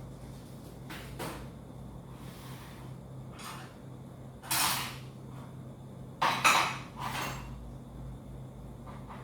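Household objects being handled during cleaning: a series of separate clatters and knocks, the loudest about four and a half and six and a half seconds in, over a steady low hum.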